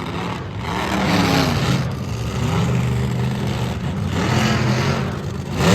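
Monster truck engine revving hard in repeated swells, its pitch rising and falling, with the loudest surge at the very end.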